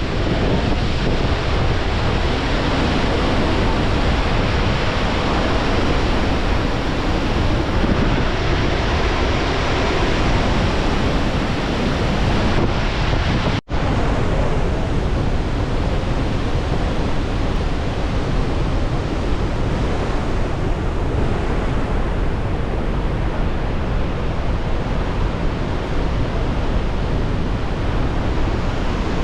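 Steady thunder of Victoria Falls: a continuous, even rush of a huge volume of falling water, mixed with wind on the microphone. It breaks off for a split second about fourteen seconds in.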